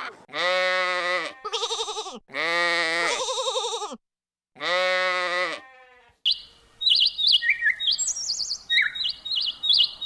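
Four long, wavering bleats from sheep or goats, with a short silent break before the last one. About six seconds in, a bird takes over with quick, high chirps repeated many times.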